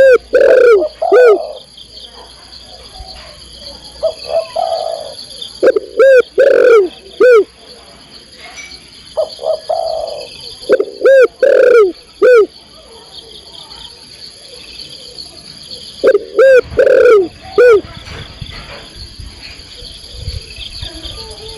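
Female spotted dove (tekukur) cooing to call a male: loud phrases of about three short, arched coos repeat roughly every five seconds, with softer coos in between. A steady high whine runs underneath.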